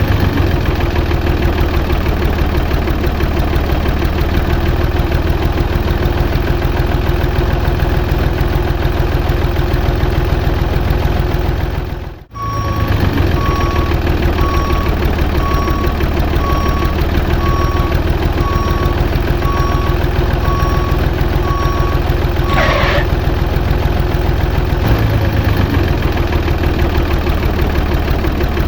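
A small engine of a miniature model truck runs steadily. After a brief cut about twelve seconds in, a reversing alarm beeps about every 0.7 seconds for roughly ten seconds over the engine, then stops.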